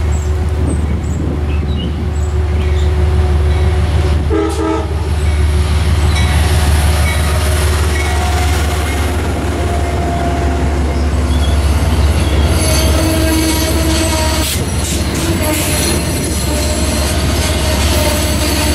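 Train passing close by with a steady low rumble: a brief locomotive horn note about four and a half seconds in, then high-pitched wheel squeal from the cars from about twelve seconds on.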